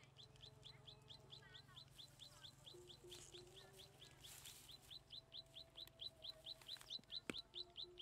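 Faint outdoor birdsong: a quick, even run of high short chirps, about four or five a second, growing louder near the end, with a few lower calls in between. One sharp click comes about seven seconds in.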